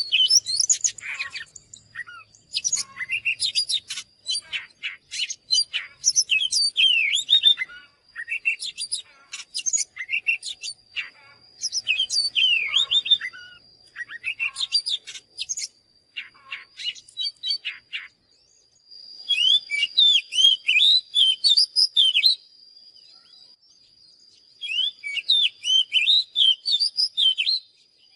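Oriental magpie-robin singing: rapid, varied whistles and trills in phrases of several seconds, with short pauses, the longest just after the middle. A faint, steady high tone runs underneath.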